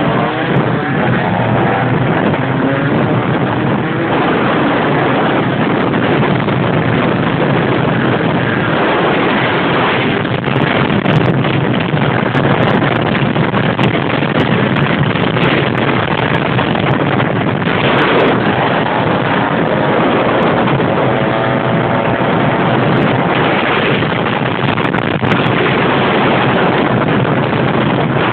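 Motorcycle running under way, its engine mixed with heavy, steady wind noise on the microphone, the engine pitch wavering now and then.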